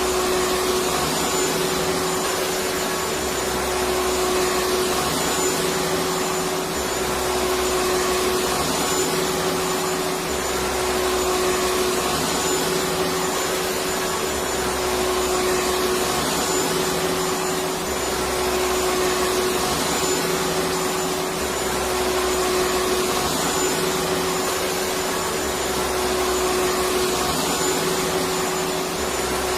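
Electric vacuum cleaner running steadily: an even rushing noise over a steady motor hum, with a low rumble that comes and goes every few seconds.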